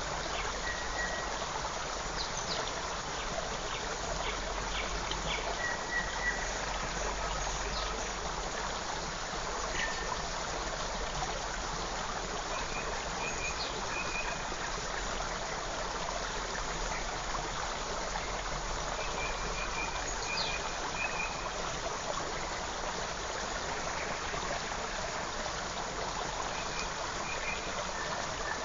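Steady rush of a forest stream, with short high bird notes and a few brief chirping series now and then.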